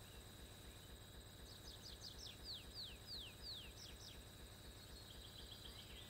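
Faint songbird song: a run of about a dozen falling whistled notes, the first ones quick and the later ones longer and slower, followed by fainter quick notes near the end. A steady high insect drone runs underneath.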